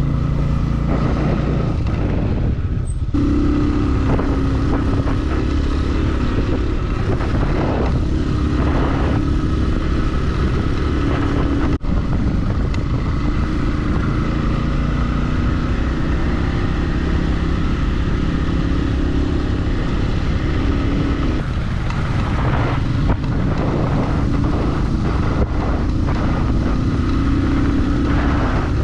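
Motorcycle engine running while riding, with steady wind and road noise; the engine note shifts a few times as the throttle changes.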